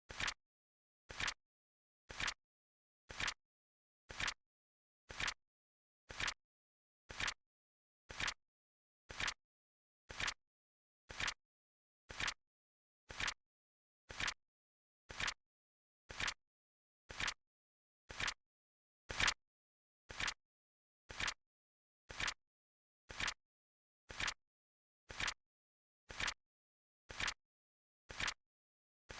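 Flip clock sound effect ticking: one short, sharp flip click every second in a steady rhythm, with dead silence between clicks. One click, about two-thirds of the way through, is a little louder than the rest.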